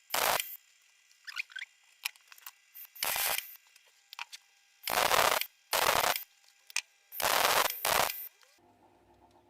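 Arc welder laying a series of short tack welds on a steel bracket: about six brief bursts of crackling arc, each up to about half a second long, with quiet pauses between.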